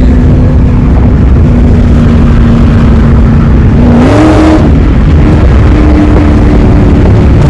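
Car engine running loud and steady while under way. About four seconds in, its pitch steps up as it accelerates, with a brief rush of noise, then holds at the higher pitch.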